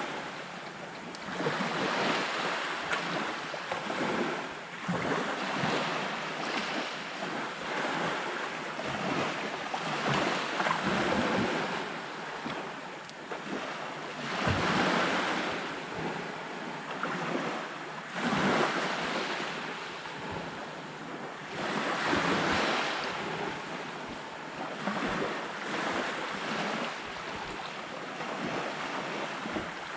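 Sea waves breaking and washing up on a sandy beach. The surf swells and falls back every few seconds over a steady rush of water.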